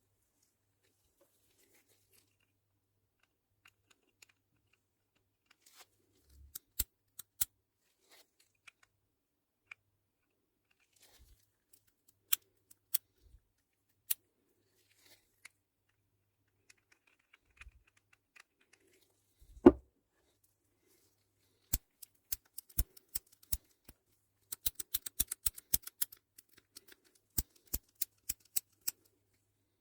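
Scattered sharp clicks from the small parts of a Shimano ST-7S20 bicycle shifter being handled and fitted together, with one heavier knock a little past the middle and a quick run of a dozen or so clicks near the end.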